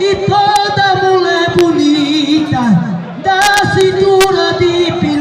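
A single voice singing an aboio, the unaccompanied cattle-herding call of north-eastern Brazil: long, high held notes that slide down at the end of each phrase. A few sharp clicks sound, one about a second and a half in and several more between three and four and a half seconds in.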